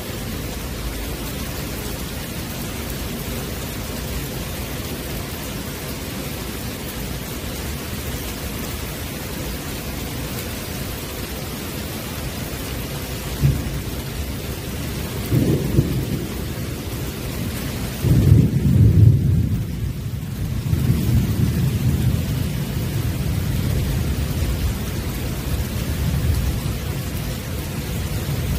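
Steady rain falling on a wet wooden deck, an even hiss. About halfway through, low rumbles swell in, with a short jolt and then a longer, loudest rumble a little past the middle, settling into a softer rumble near the end.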